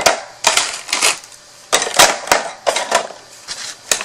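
Plastic markers and a wooden storage box being handled, clattering and clicking against each other in irregular sharp knocks, the loudest about two seconds in.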